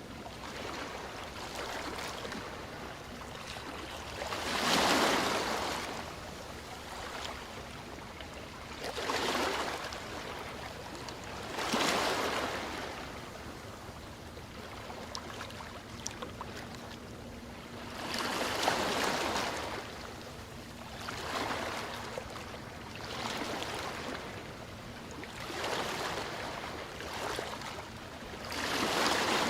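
Ocean waves breaking and washing in, a swell of surf every three to six seconds over a steady hiss of water.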